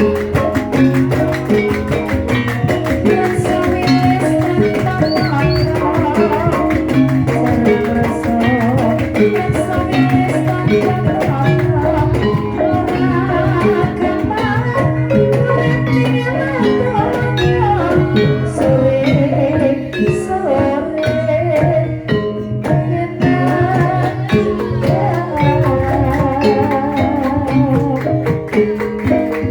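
Javanese gamelan music playing a gendhing: layered pitched metal tones over dense, even drum strokes, with a wavering melodic line that comes and goes.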